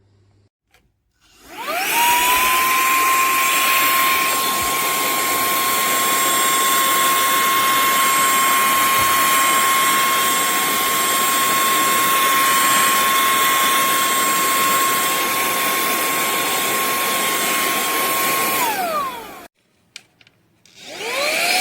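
SERVOMASTER cordless handheld vacuum cleaner switched on, its motor spinning up to a steady high whine over rushing air. It runs for about seventeen seconds, then is switched off and winds down. It is switched on and spins up again near the end.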